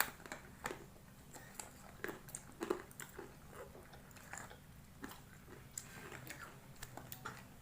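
Close-up chewing of instant ramen noodles, with irregular wet mouth clicks and smacks.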